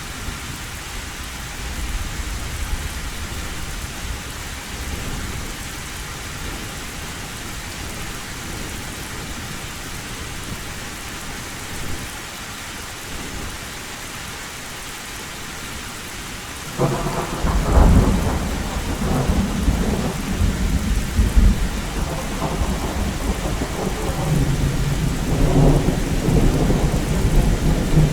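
Heavy rain falling steadily on a tin roof. About two-thirds of the way in, a loud thunder rumble breaks in suddenly and keeps rolling in swells.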